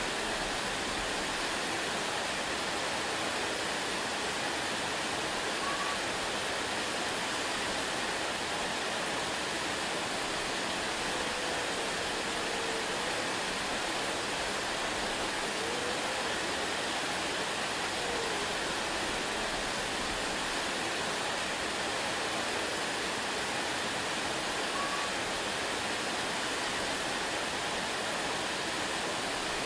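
Waterfall rushing steadily, an even, unbroken wash of falling water. A few faint short chirps sound over it now and then.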